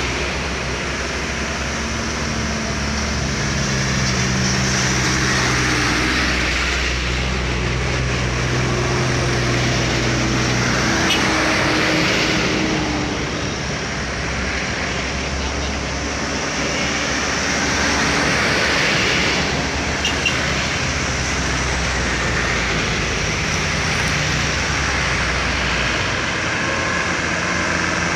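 A heavy vehicle engine running hard under load on an uphill climb. Its low note steps between pitches, over steady road and wind noise.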